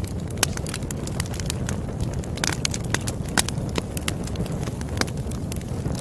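Campfire burning with dense, irregular crackles and pops of the wood over a steady low rush of the flames.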